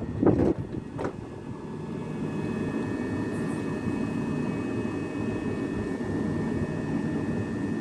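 Class 377 Electrostar electric multiple-unit train running, a steady rumble with a thin high whine over it.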